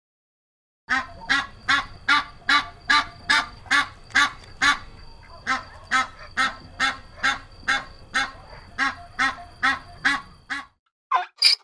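An animal giving short calls in quick succession, about two to three a second, starting about a second in and stopping shortly before the end.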